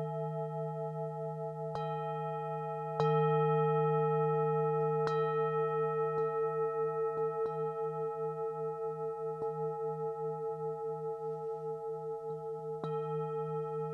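Tibetan singing bowls struck repeatedly with a mallet, the loudest strike about three seconds in. Their long tones ring on between strikes with a slow wavering pulse.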